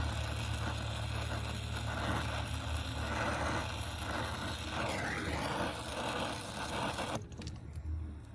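Brazing torch flame hissing steadily while copper refrigerant pipe is brazed, over a steady low hum; the hiss stops abruptly about seven seconds in.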